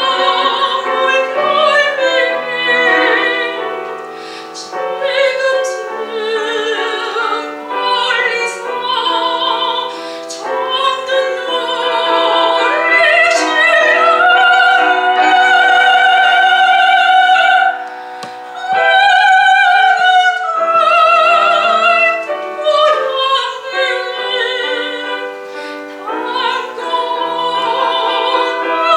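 Soprano singing a Korean art song in classical style with wide vibrato, accompanied by piano; she holds one long sustained note through the middle, then a shorter one after a brief drop.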